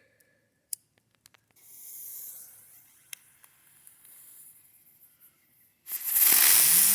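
A few sharp clicks and a faint sputtering fuse hiss, then about six seconds in a ground bloom flower firework ignites into a loud, steady hiss as it spins, with a faint tone rising and then holding.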